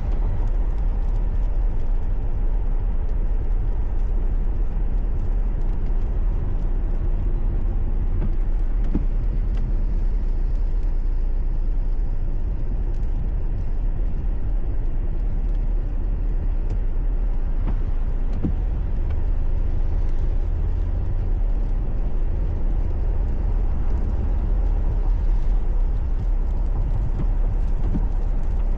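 Steady low rumble of a car driving on a highway, with road and engine noise heard from inside the car.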